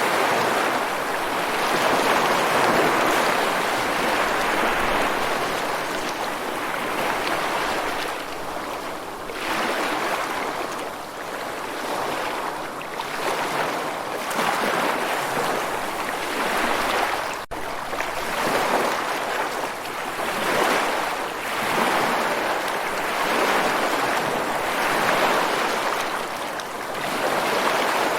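Rushing water, a steady hiss that swells and eases every second or two, with a momentary dropout a little past halfway.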